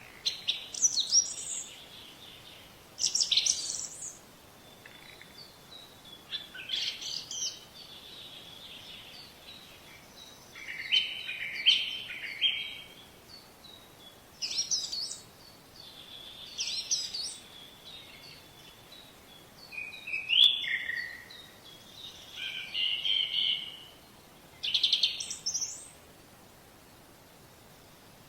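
Songbirds singing, short chirping and trilling phrases every two or three seconds, over a faint steady hiss.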